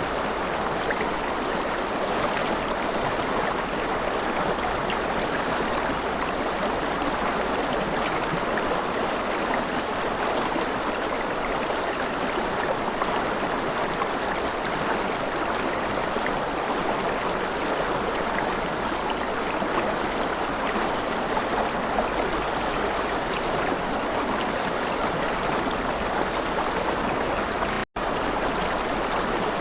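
River water flowing and splashing in a steady, even rush, with a split-second dropout near the end.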